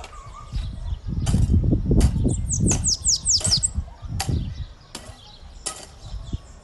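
Bananaquit singing: a quick run of high, falling notes about two seconds in. Several sharp clicks and a low rumble run beneath it.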